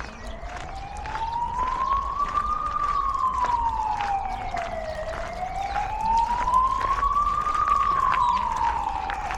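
Emergency vehicle siren wailing, its pitch rising and falling slowly in sweeps of about two and a half seconds each way. It gets louder about a second in.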